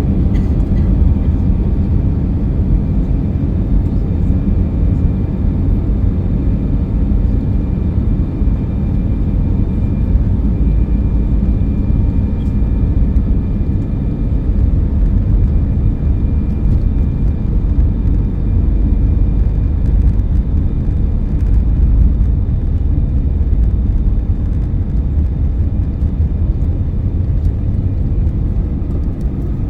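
Cabin noise inside an Airbus A319 airliner: a steady, loud low rumble of the jet engines and airflow, with a few faint steady whines above it.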